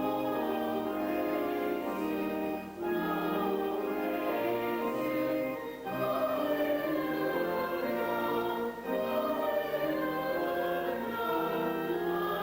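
Music with a choir singing over instrumental accompaniment, in sustained phrases that pause briefly about every three seconds.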